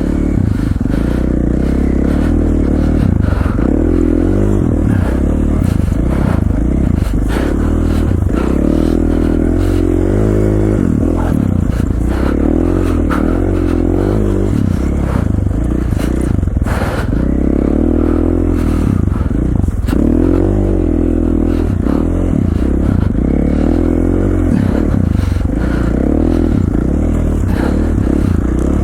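A KTM 450 XC-F dirt bike's single-cylinder four-stroke engine running under way, its revs rising and falling every second or two as the throttle is worked, with occasional knocks and clatter from the bike.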